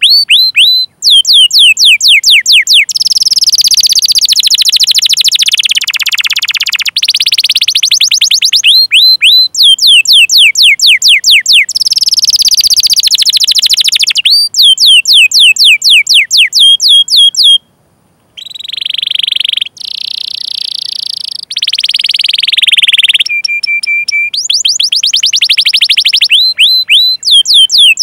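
Domestic canary singing: runs of rapid, high, downward-sweeping 'cuit cuit' chirps alternating with long, fast rolled trills, with a brief pause about 18 seconds in.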